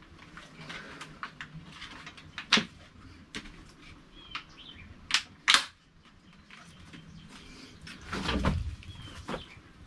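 Several sharp clicks and knocks, a longer rustling noise about eight seconds in, and faint bird chirps.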